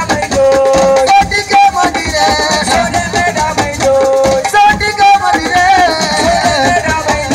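Loud live assiko band music: dense percussion with a rattling shaker, under a repeating wavering melody and singing.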